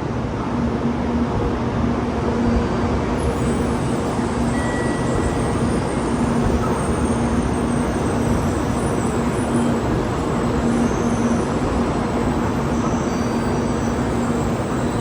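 Tokaido Shinkansen N700A train rolling into the platform, a steady rumble with a steady low hum.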